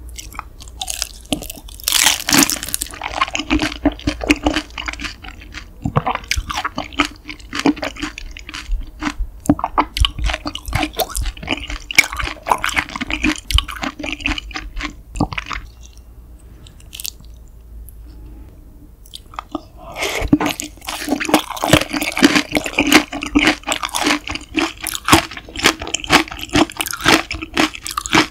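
Close-miked chewing of glazed grilled beef large intestine (daechang): a dense run of crunchy clicks and wet mouth sounds that eases off for a few seconds past the middle, then picks up again.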